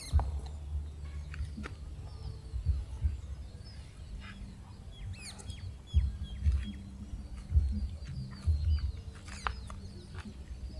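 Birds calling in short chirps over an uneven low rumble with several dull thumps, and scattered light clicks.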